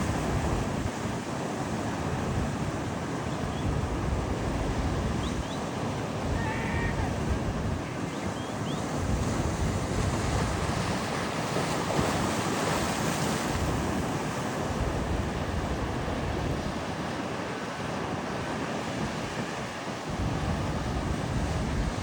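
Rough sea surf breaking and washing on the beach, a steady rushing noise that swells and eases, with wind buffeting the microphone.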